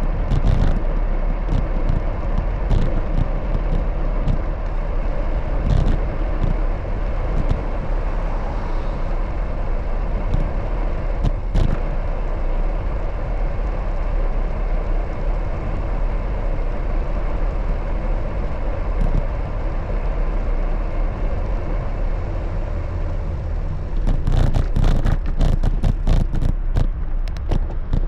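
Steady city traffic and road noise heard from a moving bicycle, with a heavy low rumble throughout. A cluster of clicks and knocks comes in near the end.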